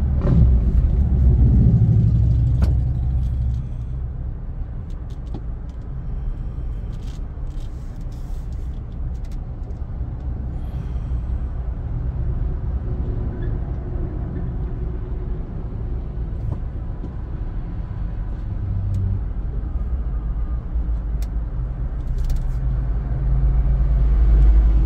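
Car driving in traffic: a steady low rumble of engine and road noise that swells about a second in and again near the end, with a few faint clicks.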